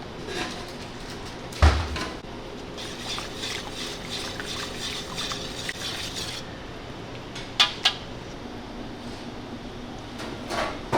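Kitchen work with dishes and utensils: a heavy knock about two seconds in, then a stretch of scraping and handling, and a few sharp clinks near the end.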